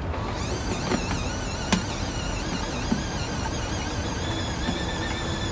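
Portable mini washing machine running a wash cycle uncovered, churning water and clothes with a steady wavering whine and a few light knocks.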